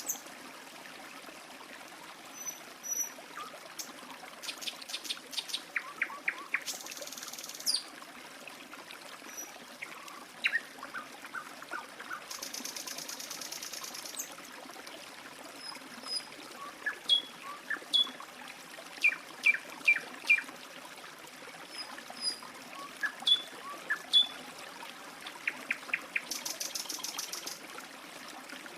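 Water trickling steadily while small birds chirp in short, high calls scattered throughout. Three buzzy trills of a second or two each come at about seven seconds, thirteen seconds and near the end.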